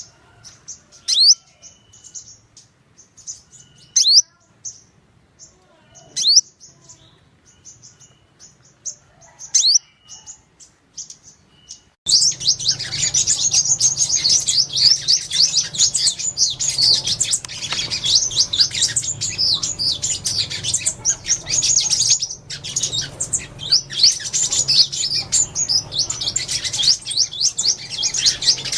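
Sunbirds calling: at first single sharp, high calls that sweep downward, a few seconds apart, with faint twittering between them. About twelve seconds in, a dense, continuous chatter of many sunbirds starts abruptly: flock calls.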